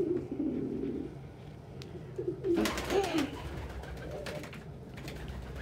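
Pigeons cooing in a loft, with a burst of wing flutter or scuffling about two and a half seconds in.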